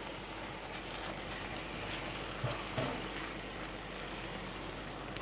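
Tomato purée frying with sautéed onion and spices in a non-stick granite-coated wok: a low, steady sizzle, with a silicone spatula stirring through it and a couple of soft taps about halfway.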